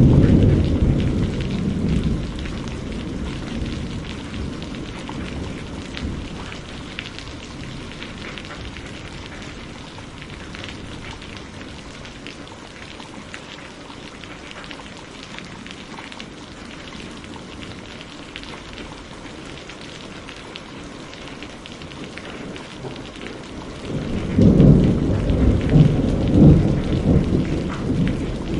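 Steady rain falling with thunder: a low rumble fading out over the first few seconds, then another long rolling peal of thunder starting near the end.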